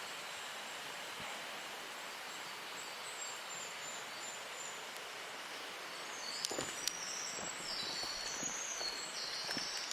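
Steady rushing of water at a mountain waterfall. From about two-thirds of the way in come short high bird chirps and a few footsteps.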